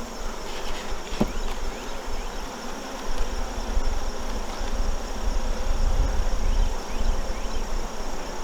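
Honeybees buzzing around an opened hive, a steady swarm hum with one bee passing close and falling in pitch about a second in.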